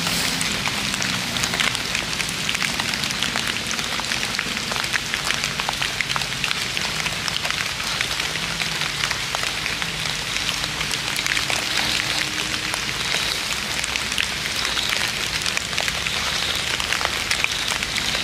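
Steady drizzle falling: a dense, even patter of many small raindrops.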